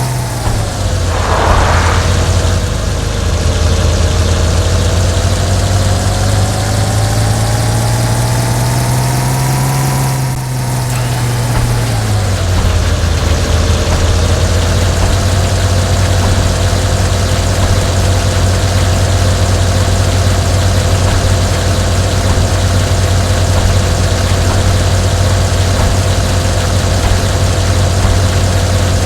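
An engine running steadily near idle. Its pitch dips at the start, climbs slowly for about ten seconds, then drops about eleven seconds in and holds steady. There is a brief rushing noise about a second in.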